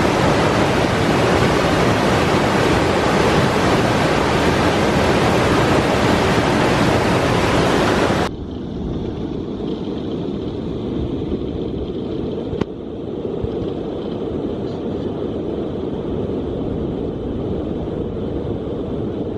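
Rushing whitewater of a steep mountain torrent, a loud steady rush of water. About eight seconds in it cuts abruptly to a duller, more muffled rush, and there is a single sharp click a few seconds after that.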